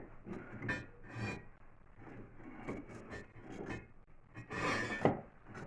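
Masonry being handled: a stone scraped and shifted against brick in short irregular scrapes and clicks, with a longer scrape and a sharp knock near the end.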